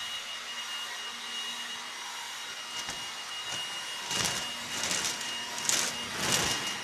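A small motor-driven blower runs steadily with a constant whine, its air rushing louder in several short surges from about four seconds in. It is being played against wooden fence slats to test whether they rattle in wind.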